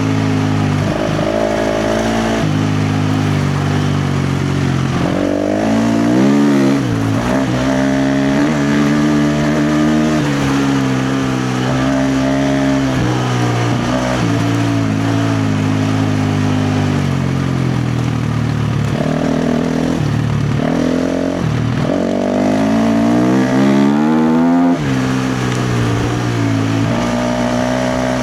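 KTM 350 XC-F dirt bike's single-cylinder four-stroke engine ridden hard, the revs climbing and dropping over and over as the throttle is opened and chopped, with long pulls about five seconds in and again near the end.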